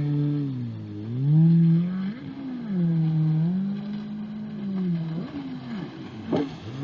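Jet ski engine running, its pitch rising and falling over and over, about once every second or two.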